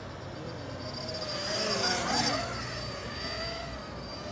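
5-inch FPV freestyle quadcopter with EMAX ECO II 2306 motors in flight, its motor and propeller whine rising and falling in pitch with the throttle. One propeller is loose and bent, which gives the whine an unusual sound, called "cool".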